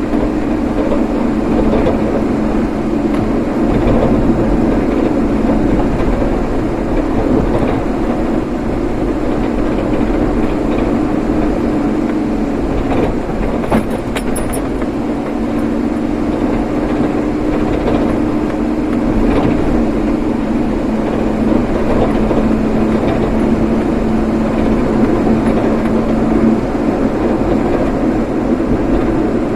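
Steady road and engine noise of a vehicle being driven, with a low hum that drops away for a few seconds around the middle and a brief click about halfway through.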